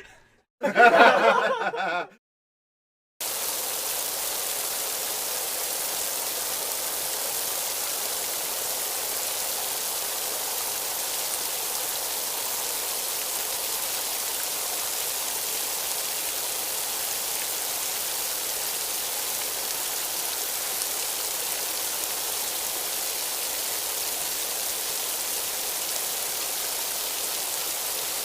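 A short burst of laughter cut off cleanly, then after about a second of silence a steady, even hiss of noise that carries on unbroken, strongest in the treble.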